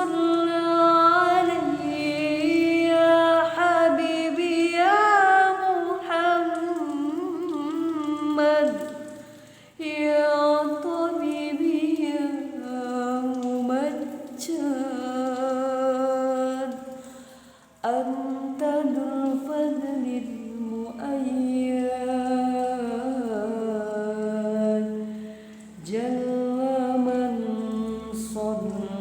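One voice singing an Arabic devotional song in praise of the Prophet (sholawat) unaccompanied, in long, ornamented phrases that bend up and down in pitch. There are short breaks for breath about ten, eighteen and twenty-six seconds in.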